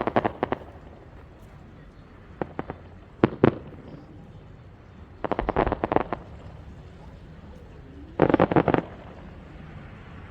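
Fireworks bursting in quick clusters of sharp cracks, a crackling volley every two to three seconds over a low steady rumble, with the biggest volley near the end.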